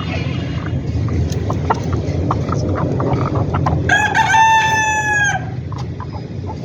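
A Leghorn rooster crows once, about four seconds in, a single drawn-out call of about a second and a half that drops in pitch at its end. Hens cluck with short calls throughout, over a steady low background noise.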